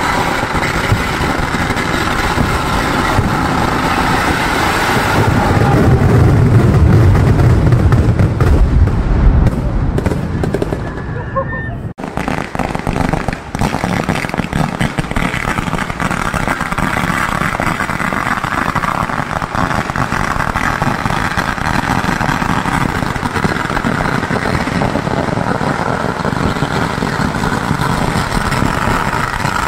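A chain of firecrackers going off in a continuous rapid crackle, with aerial shells bursting overhead. It grows louder with heavy booming from about five to ten seconds in, drops off sharply near twelve seconds, then the dense crackling carries on.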